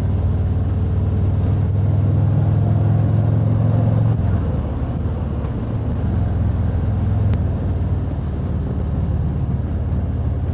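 Harley-Davidson Road Glide's V-twin engine running steadily while riding along the road, with wind and road noise over it. About four seconds in the engine note drops a little and settles lower.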